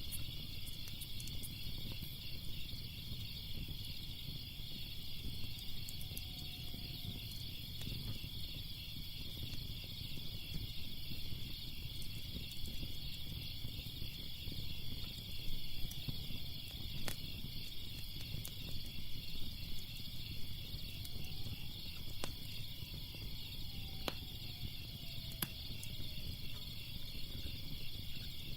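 A steady chorus of crickets chirping over a low rumbling fire, with scattered sharp crackles and pops from the burning wood.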